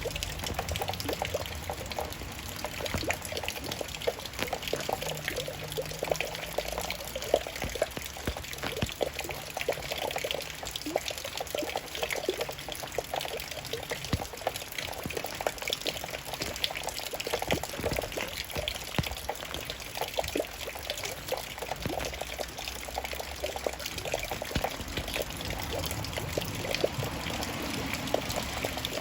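Raindrops falling steadily: many small drops landing in quick, irregular succession without let-up.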